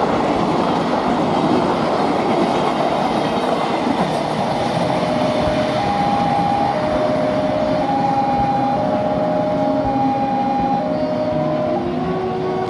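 Prambanan Ekspres passenger train running past, a steady heavy rumble of wheels on rail with clickety-clack. From about five seconds in, a two-tone warning signal sounds over it, alternating between a lower and a higher note about once a second.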